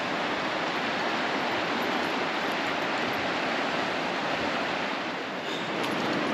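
Steady rushing of a fast-flowing creek.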